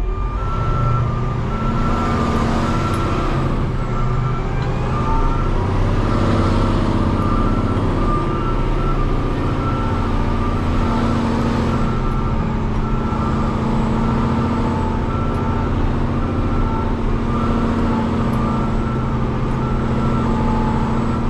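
Backup alarm beeping in a steady repeating pattern over a heavy diesel truck engine running.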